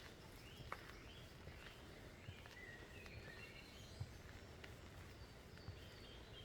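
Birds calling faintly in native forest: a run of short, arching chirps and whistles, with a few sharp clicks.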